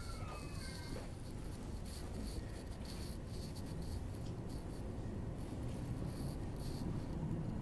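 Steady low rumble inside the driver's cab of a Tokaido Line electric train as it starts to pull out along the platform, with faint, irregular light ticks over it.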